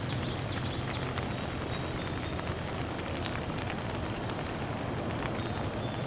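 Steady rain falling, with scattered drips ticking, and a few short high bird chirps in the first second and once more near the end.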